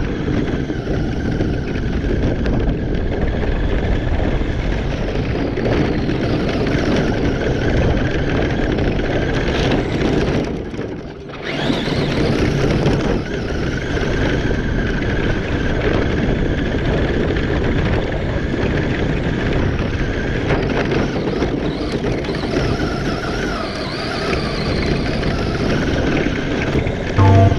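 Electric Traxxas RC trucks racing over rough ground: a steady motor whine over loud tyre and drivetrain noise, dropping away briefly about eleven seconds in.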